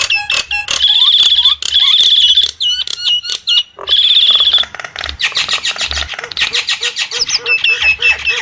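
Nias starling singing a loud, varied song: fast rattling trills high in pitch broken by sharp clicks, then a quicker run of short repeated whistled notes from about five seconds in.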